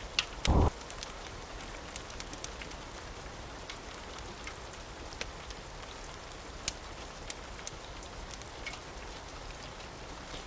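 Steady rain hissing, with sharp pops and crackles from a wood fire scattered throughout. A short, loud low thump comes about half a second in.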